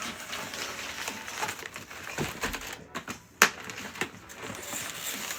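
Crackling and clicking handling noises, with one sharp snap about three and a half seconds in.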